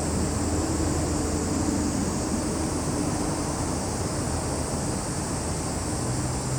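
Steady high-pitched chorus of summer insects under a low, steady motor drone from distant traffic or an aircraft, whose pitch shifts toward the end.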